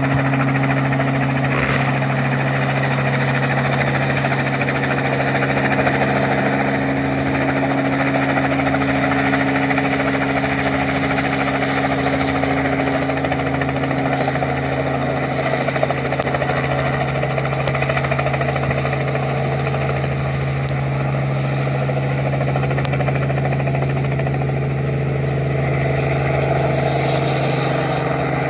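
Helicopter flying low over cherry trees, its rotor downwash blowing rainwater off the fruit: a steady, unbroken rotor-and-engine sound with a constant low hum.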